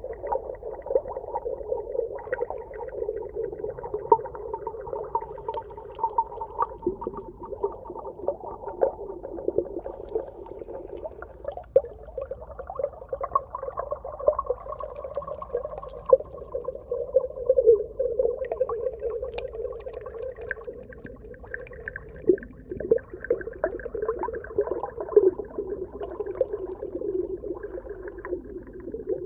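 Underwater ambience: a muffled, steady band of sound with slowly wavering tones and many small clicks and crackles scattered through it.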